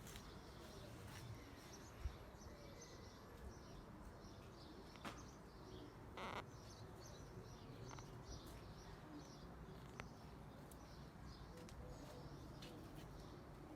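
Small birds chirping and singing faintly, many short high calls scattered throughout over a steady outdoor background hiss, with a few brief soft clicks.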